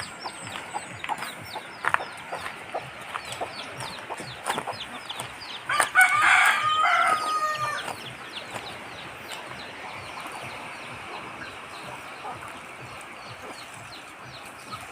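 A rooster crows once, about six seconds in, for about two seconds, over many short, quick chirps from poultry.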